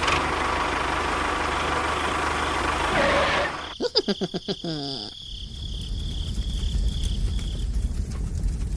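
A small motor running with a steady whine, broken about four seconds in by a quick run of pulses, then settling into a low rumble with scattered ticks.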